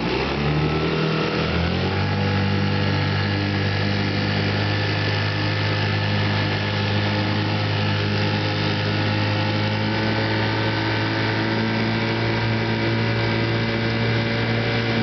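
1958 Johnson 3 hp two-stroke outboard motor catching and running, picking up speed over the first couple of seconds and then running steadily. It runs with a misfire that the owner suspects is a fouled spark plug.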